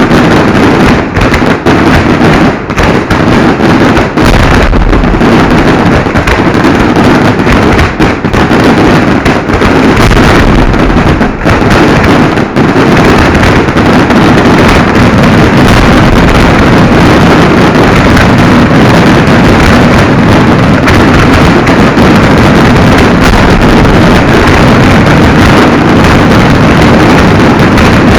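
A fireworks barrage at very close range, loud enough to overload the recording: rapid overlapping bangs with brief dips in the first half, merging into one unbroken din for the rest.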